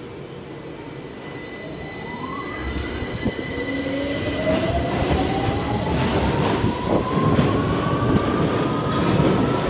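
London Underground Victoria line 2009 Stock train accelerating, its traction motor whine rising steadily in pitch over a growing rumble of wheels on rail, getting louder throughout.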